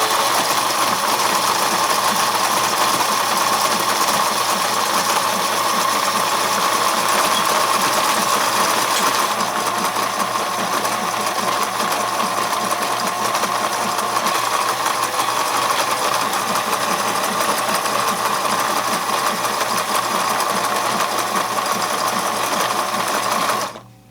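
New Bright G-scale toy train locomotive running on its track: a steady electric motor and gear whine. It gets a little quieter about ten seconds in and stops suddenly near the end.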